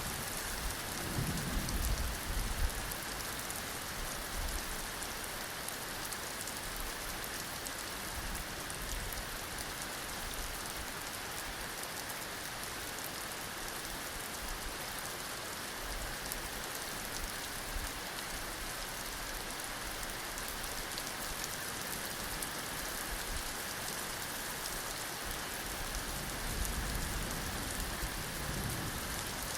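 Heavy rain falling steadily in a dense, even hiss. Low thunder rumbles swell about a second in and again near the end.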